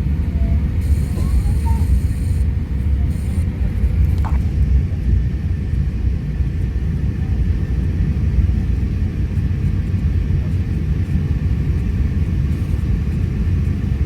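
Steady low rumble of airliner cabin noise inside an Airbus A350-1000, with a faint steady hum over it.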